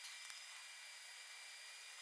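Near silence: faint steady hiss of room tone, with two faint ticks near the start.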